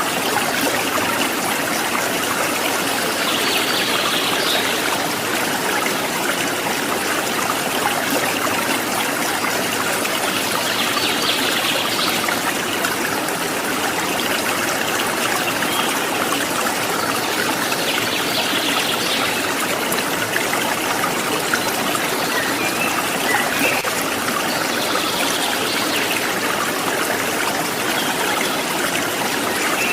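Steady trickling, babbling water of a small stream. Short bits of bird chirping come in about every seven seconds.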